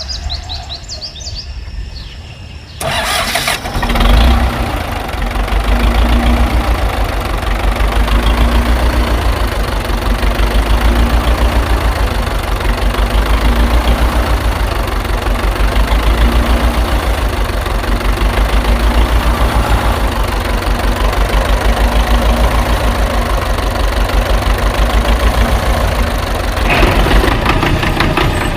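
An engine starts about three seconds in and then runs steadily with a fast, even low pulse. Near the end the sound takes on more high-pitched noise.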